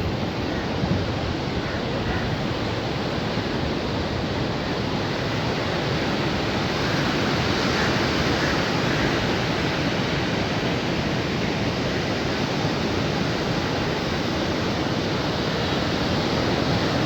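Sea surf washing steadily, a continuous rushing that swells slightly about halfway through.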